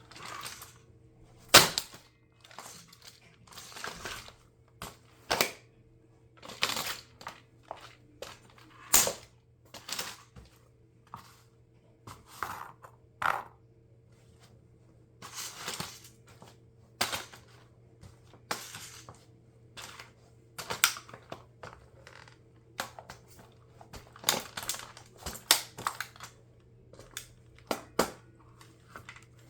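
Plastic body and parts of a toy RC car cracking and crunching under high heels: irregular sharp snaps and crunches, with the loudest crack about a second and a half in.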